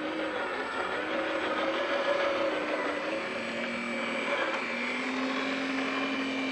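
Radio-control scale truck's motor and gearbox whining as it drives, the pitch shifting up and down several times with the throttle.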